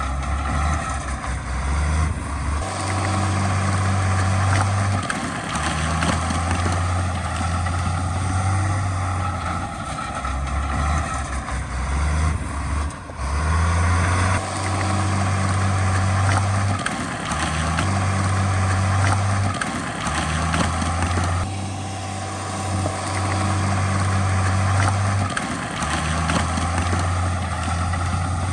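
Heavy diesel earthmoving machinery running at work, a bulldozer or dump truck engine, with a low drone that rises and drops away every few seconds as the load changes.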